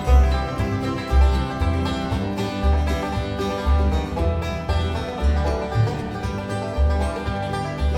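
Bluegrass band playing an instrumental break in a gospel song, with plucked strings over a steady bass beat.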